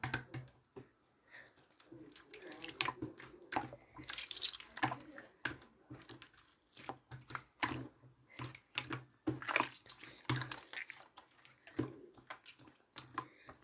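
Glitter slime being squished and pressed by hand, making irregular wet clicks, pops and squelches.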